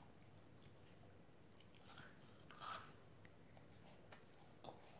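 Faint sounds of a child biting and chewing a chocolate-coated ice cream bar: a few soft mouth noises, the clearest a little past halfway.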